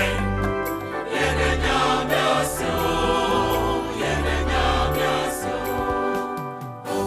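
A choir singing over low, sustained bass notes, with a brief dip in the music just before the end.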